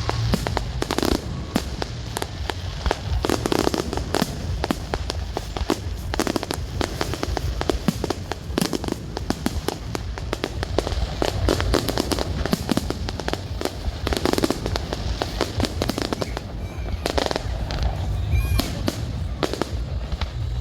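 Fireworks going off, a dense, continuous run of rapid cracks and bangs with heavier booms mixed in.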